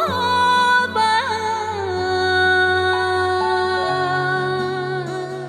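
A woman singing over a backing track: two short ornamented notes, then one long held final note from about two seconds in to the end.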